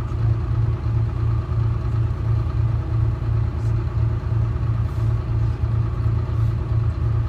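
Detroit Diesel 6V71 two-stroke V6 diesel engine of a GMC New Look transit bus running steadily, a low throb pulsing about three times a second.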